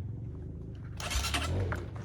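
Dirt bike engine idling with a steady low beat; about a second in, a louder rush of noise rises over it.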